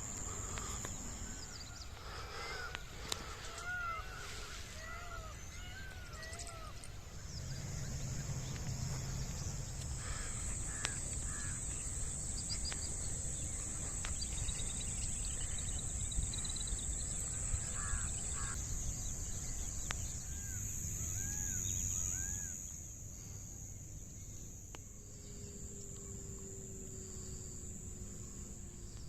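Crows cawing in short series of repeated calls, over a steady high-pitched insect buzz and a low outdoor rumble.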